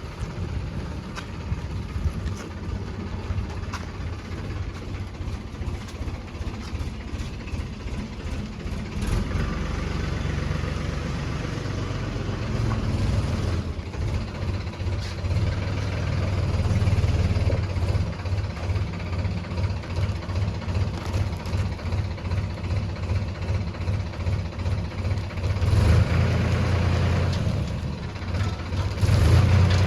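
Heavy diesel engine running with a fast, even low chug, growing louder about nine seconds in and again in the second half, with brief surges near the end.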